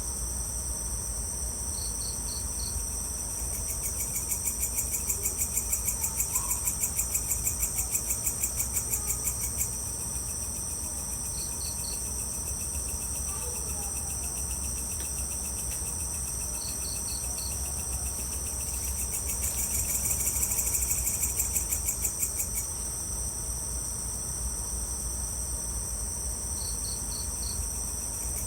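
Evening chorus of crickets and other insects: a steady high-pitched drone, with louder, rapidly pulsing trills swelling in twice and a short chirp of a few pulses repeating every several seconds. A low rumble sits underneath.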